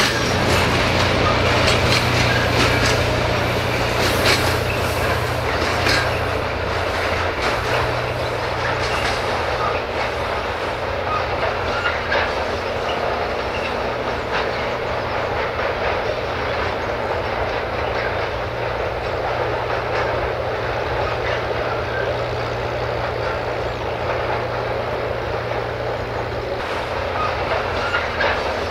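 Freight train rolling past, its wagon wheels clicking rhythmically over the rail joints over a continuous rumble. A steady low hum is strongest for about the first seven seconds and then eases off.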